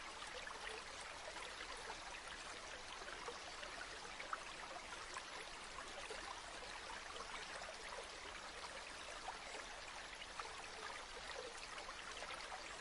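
Gently flowing river water: a soft, steady rush of water with fine splashes throughout.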